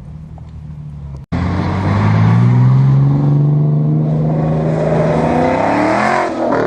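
Loud car engine under acceleration, starting abruptly about a second in: its pitch climbs, holds steady, then shifts near the end.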